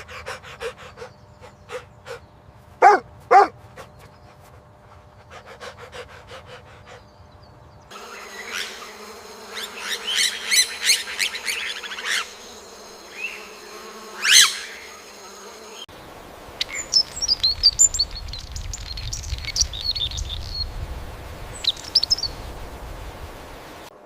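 Three back-to-back animal sound clips of about eight seconds each: insect buzzing and chirping, with quick high bird chirps in the last one.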